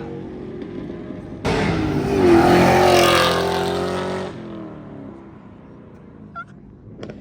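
A car engine running. About a second and a half in it turns suddenly much louder for about three seconds, its pitch shifting, then dies away.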